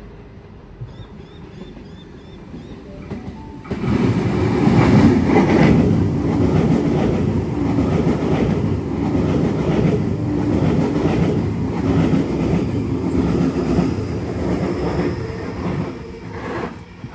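Waratah double-deck electric train running through the platform without stopping: it arrives suddenly and loudly about four seconds in, then the steady rumble of wheels on rail with a regular clatter, dropping away near the end as it passes.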